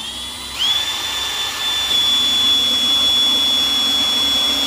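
Power drill boring a screw hole for the plexiglass panel of a cedar bird feeder. It spins up about half a second in, then runs at a steady high whine.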